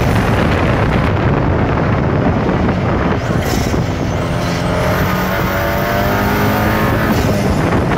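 KTM X-Bow's tuned 2.0-litre TFSI turbocharged four-cylinder running hard at speed under loud wind and road noise. Its engine note stands out clearly and holds steady from about halfway through for a few seconds.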